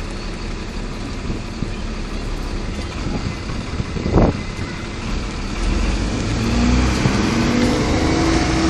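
Road traffic: a motor vehicle's engine running. A short knock comes about four seconds in, and from about six seconds in an engine note rises slowly as the vehicle picks up speed.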